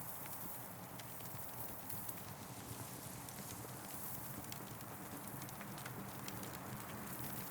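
Campfire crackling: scattered sharp pops and snaps over a steady hiss that swells and eases.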